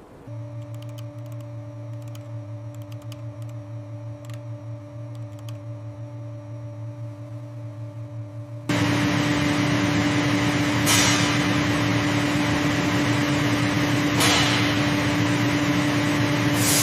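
Steady mechanical hum with a few faint clicks. About halfway through it jumps to a louder hum under a strong steady hiss, with two brief swishes, and then cuts off.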